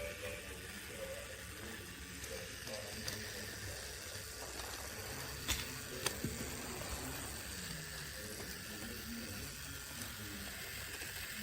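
Hape battery-powered toy train running: its small geared motor runs steadily, with two sharp clicks a little over halfway through.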